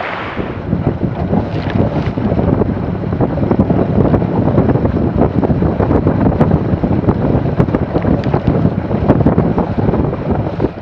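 Wind buffeting the microphone in uneven gusts, over the rush of water along the hull of a Weta trimaran under sail.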